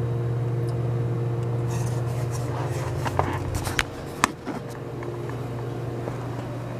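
A steady low electrical hum, with a few sharp clicks and taps about three to four and a half seconds in.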